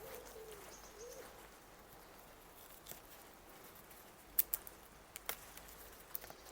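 A bird's low, hooting calls, two short rising-and-falling notes in the first second or so, then several sharp snaps or clicks, the loudest about four seconds in.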